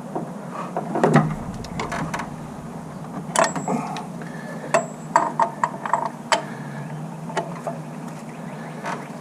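Scattered metallic clicks and clinks of hand tools and a socket on the crankshaft bolt, as the bolt is set up to press the harmonic balancer onto the crank, with a busier run of clicks in the middle, some briefly ringing. A steady low hum runs underneath.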